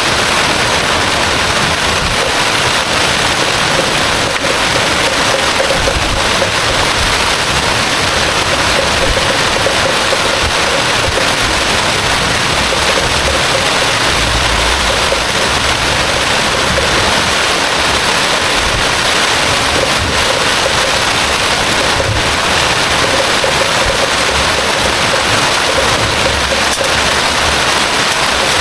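Heavy rain pouring down steadily, a loud even hiss that never lets up.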